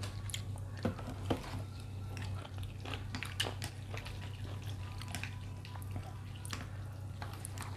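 Wet chewing and small mouth clicks of someone eating chicken noodles with meatballs, in many short irregular ticks over a low steady hum.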